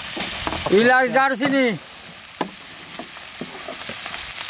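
Chilies and whole spices sizzling in hot oil in a large flat steel frying tray, with a long-handled spatula scraping and stirring in short clicks. A brief pitched voice-like call is heard about a second in.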